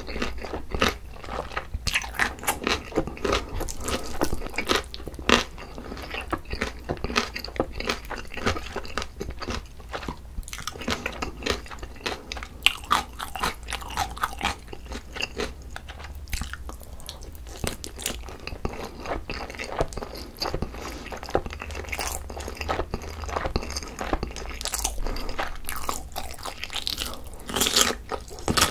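Close-miked chewing and biting of seasoned boneless chicken, rice and kimchi: an irregular, continuous run of crunchy and wet mouth sounds.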